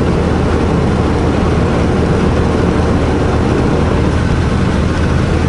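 Semi truck's diesel engine running steadily under road noise, a constant low hum.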